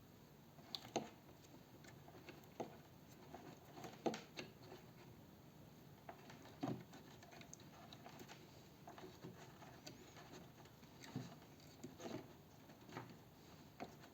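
Faint, irregular crinkles and small clicks of electrical tape being pulled and wrapped around a soldered cable joint.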